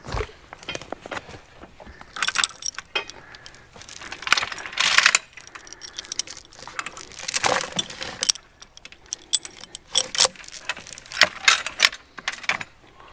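Metal chain and hitch hardware rattling and clinking in about five short bursts with pauses between, as a log chain is handled to hitch a draft-horse team to a log.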